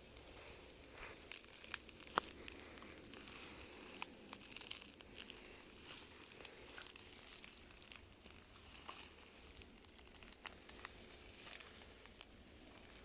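Faint close rustling and crinkling with many scattered sharp clicks and ticks, the sharpest about two seconds in.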